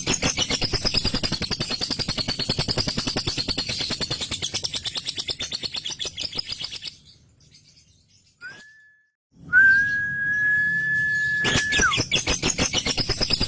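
Male lovebird's ngekek: a long, fast string of sharp chirps that fades out about halfway through. After a short pause comes a steady high whistled tone, held about two seconds and sliding down at its end, then the rapid chattering starts again near the end.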